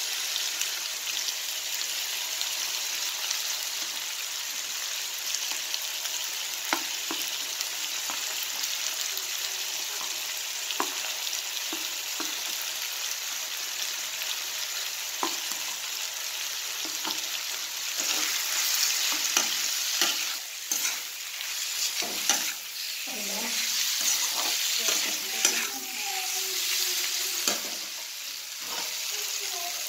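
Onions, tomatoes and spices sizzling in oil in a kadhai, with a steel spatula scraping and tapping the pan as it stirs. The stirring grows louder and busier a little past halfway.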